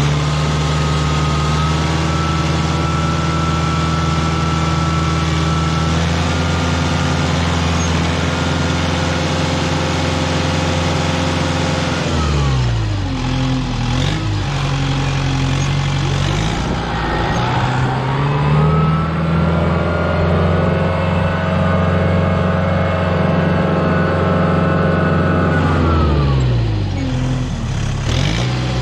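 Kubota tractor's diesel engine running under load while plowing snow. The revs drop and climb back up twice, once near the middle and again near the end.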